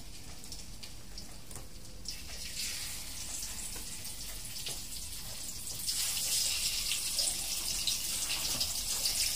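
Food frying in hot oil in a wok on a gas stove: a steady sizzle full of fine crackles, growing louder about six seconds in.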